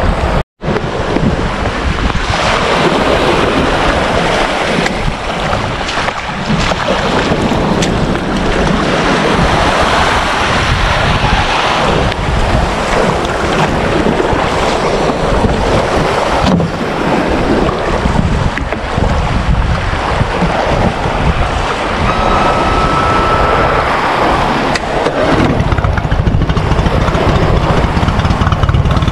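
Wind buffeting the microphone with the rush and slap of water around a small boat on the sea, loud and steady. There is a brief dropout about half a second in.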